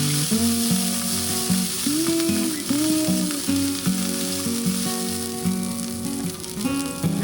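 Food frying and sizzling in a hot pan, a steady hiss that cuts off abruptly near the end, with background music playing under it.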